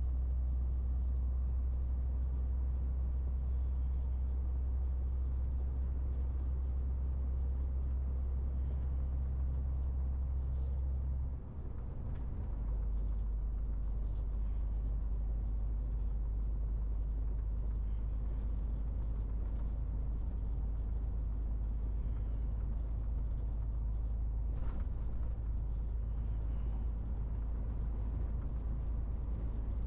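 MAN TGX 18.470 truck's six-cylinder diesel engine running on the road with a steady low drone. About eleven seconds in, the drone dips briefly and settles slightly lower. A short click comes near the end.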